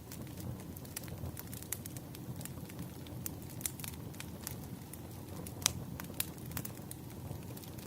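Wood campfire burning, crackling with irregular sharp pops over a steady low rumble of the flames; one louder pop comes about two-thirds of the way through.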